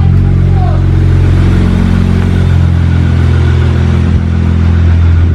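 Car engine idling steadily and loudly just after a cold start.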